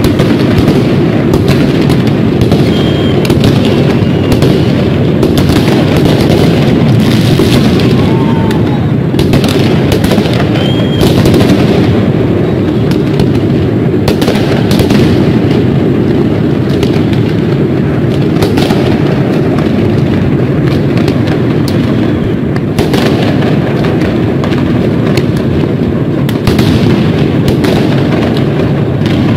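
Many fireworks going off at once in a New Year display: a loud, continuous barrage of overlapping bangs and booms with no break, over a heavy rumble.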